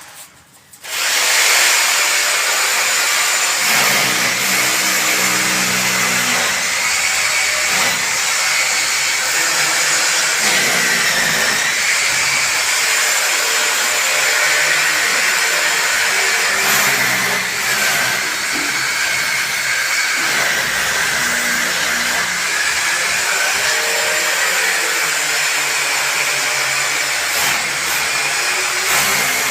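A power tool starts up about a second in and runs continuously, with a steady high whine over a coarse hiss.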